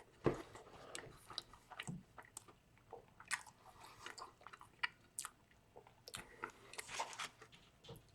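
A person chewing a mouthful of crispy chicken biscuit close to the microphone, with many small irregular mouth clicks and smacks.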